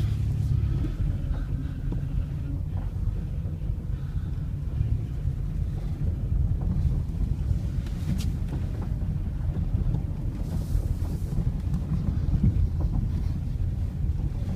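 2002 Dodge Caravan's 3.3-litre V6 running under load as the van drives forward in drive over gravel, a steady low rumble with tyre and road noise; the transmission is pulling in drive.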